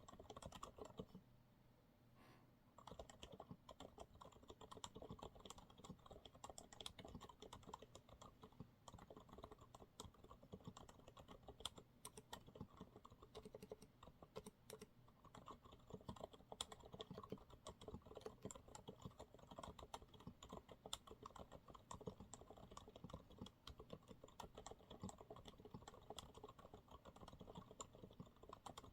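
Continuous quiet typing on a Monsgeek MG108W mechanical keyboard with TTC silent brown switches, in rapid irregular keystrokes, with a brief pause about two seconds in.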